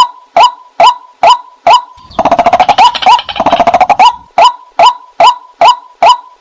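White-breasted waterhen calling: a steady run of loud, sharp 'kwak' notes about two a second. About two seconds in, a rapid chattering of fast notes breaks in for about two seconds, then the steady notes resume.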